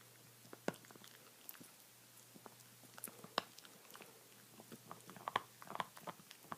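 A pet chewing and gnawing on a bone: irregular sharp clicks and cracks of teeth on bone, coming thicker about five seconds in.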